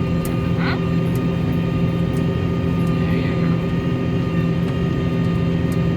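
Case IH tractor's diesel engine running steadily under load while pulling a disk harrow through the field, a constant low drone with an even pitch.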